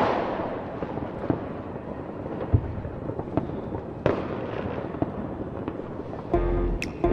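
Fireworks exploding: a loud bang at the start that fades into a long rumble, another bang about four seconds in, and scattered smaller pops between them. Music with a steady bass beat comes in near the end.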